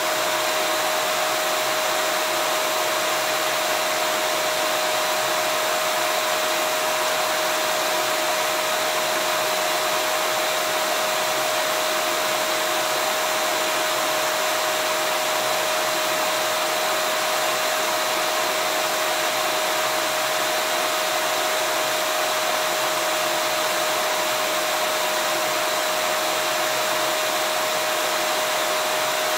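Vacuum cleaner running steadily: an even rush of air with one constant whine over it, unchanging throughout.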